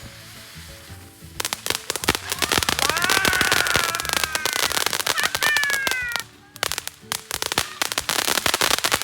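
Consumer fireworks crackling: a dense run of rapid sharp pops that starts about a second and a half in. High whistling tones rise and fall over it for a few seconds, and the crackling stops briefly about two-thirds of the way through, then resumes.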